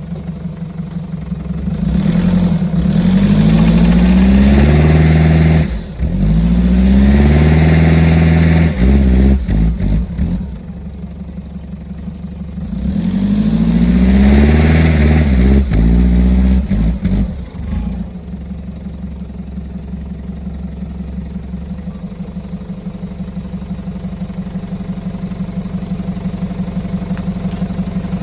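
2009 Toyota Prado's 3.0-litre 1KD-FTV four-cylinder turbodiesel, heard through a free-flow side-exit exhaust with an aftermarket clamp-on muffler. It is revved and held up three times, dropping back to idle in between, then settles into a steady, pulsing idle for the last ten seconds.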